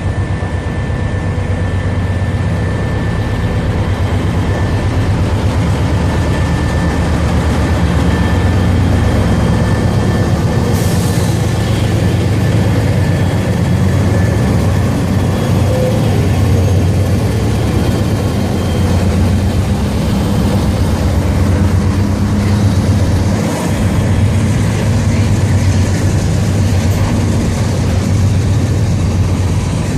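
Diesel freight locomotive engines running steadily close by: a loud, even low rumble.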